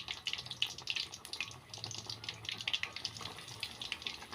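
Flour-coated tempe frying in hot oil, a steady dense sizzle with many small crackling pops.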